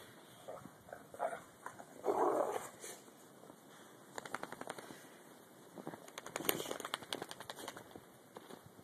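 A dog gives one short bark about two seconds in, followed later by two runs of rapid crackling clicks.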